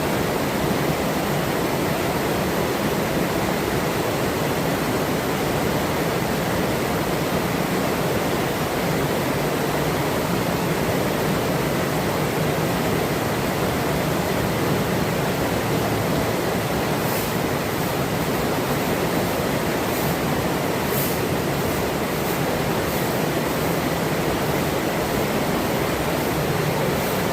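Forest river flowing: a steady, even rush of running water. A few faint, very short high-pitched sounds come in over it in the second half.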